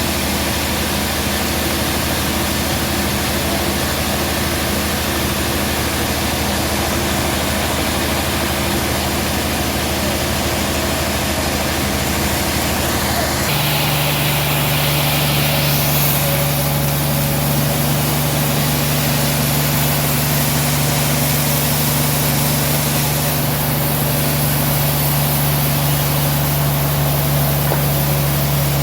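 Band sawmill running, a steady machine hum over a hiss; about halfway through the hum abruptly changes to a different pitch.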